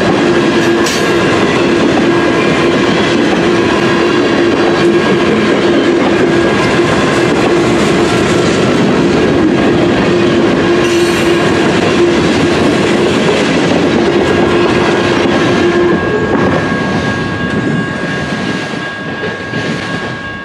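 Cars of a mixed-freight train rolling past, wheels clattering on the rails with a steady squeal. The squeal stops about three-quarters of the way through, and the noise fades as the last cars pass.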